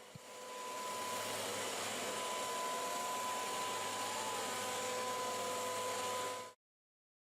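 Hoover WindTunnel Pet Rewind UH70210 upright vacuum cleaner running: a steady rush of air with a steady whine. It cuts off suddenly about six and a half seconds in.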